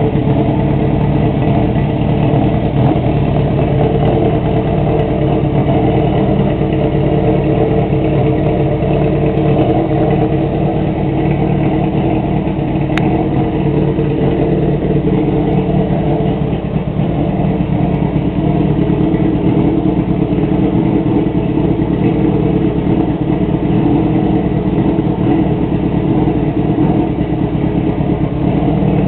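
Honda CB400 Super Four's inline four-cylinder engine idling steadily through a straight-through exhaust.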